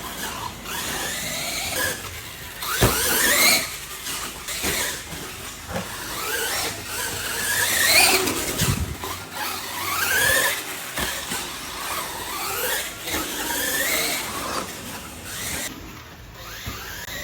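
Whine of electric radio-controlled monster truck motors racing on a dirt track, rising and falling in pitch again and again as the trucks accelerate and back off. Two sharp knocks come through, one about three seconds in and one near the middle.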